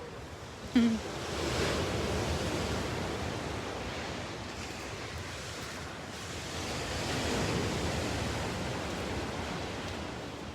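Ocean surf: big waves breaking and washing in, swelling up twice. A brief, sharp sound comes about a second in.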